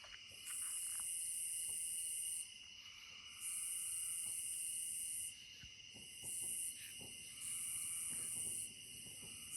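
A nighttime insect chorus: a shrill, high buzzing that comes and goes in stretches of about one to two seconds, over a steady high cricket trill.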